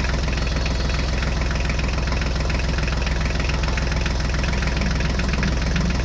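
Toy tractor running steadily as it drives, a loud even hum with a fast rattling tick.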